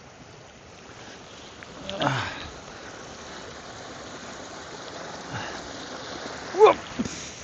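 Steady rush of flowing stream water near a waterfall, with two short vocal sounds from a person, a falling one about two seconds in and a brief, louder one near the end.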